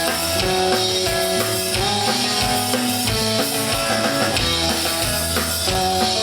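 Live punk/space rock band playing an instrumental passage: electric guitars holding and changing chords over a drum kit's steady beat.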